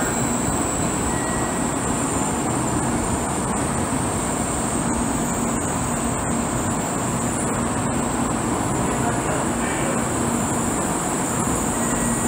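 N700A-series Shinkansen train rolling slowly along a station platform: a steady, even rumble of wheels and running gear.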